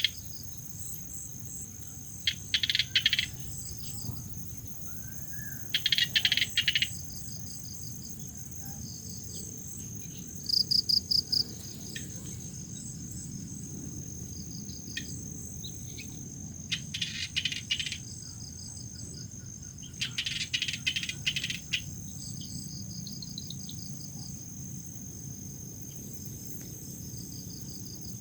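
Crickets chirping: one steady high-pitched trill, with louder bursts of rapid chirps about a second long every few seconds.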